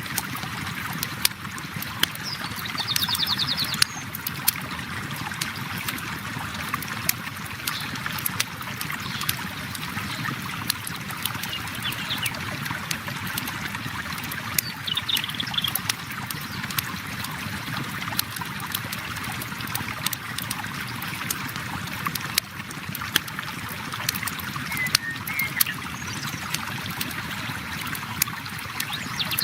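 River water flowing steadily, with a campfire crackling in sharp pops throughout and a few brief high chirps.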